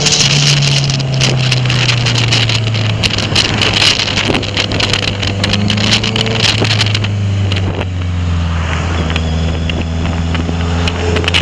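Honda CBR650F's inline-four engine running through an Akrapovic full exhaust while riding, its pitch falling steadily as the bike slows. Wind buffets the microphone throughout.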